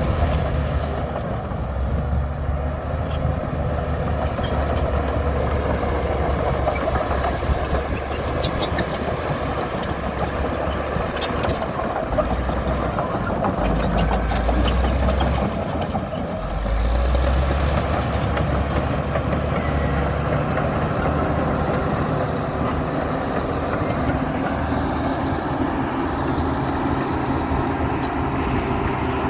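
Komatsu D60P bulldozer's diesel engine running under load, a steady low rumble whose pitch shifts up and down a few times midway, with scattered metallic clanks.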